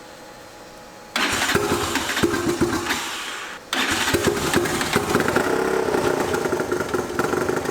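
The turbocharged Yamaha Raptor 660 single-cylinder engine is started about a second in and runs loudly with rapid firing pulses, breaks off suddenly about two and a half seconds later, then runs again. It is running with a vacuum leak from loose and stripped intake manifold bolts, which the crew blames for it running badly.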